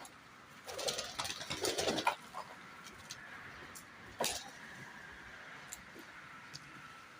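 Domestic pigeons, with a flurry of sharp, rustling sounds from the birds between about one and two seconds in, and one sharp click a little after four seconds.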